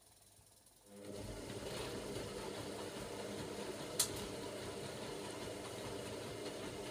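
Hoover Logic washing machine's motor starting abruptly about a second in and running steadily in the rinse stage of a cotton 60 wash, with one sharp click about three seconds later.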